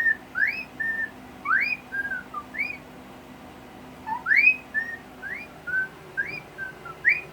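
A series of short clear whistles: quick upward-sliding notes, several followed by a brief level note, repeated with short pauses and a gap of about a second midway.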